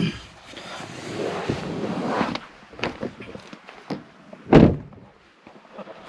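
Rustling and a couple of small clicks, then a vehicle door slammed shut once about four and a half seconds in, the loudest sound here.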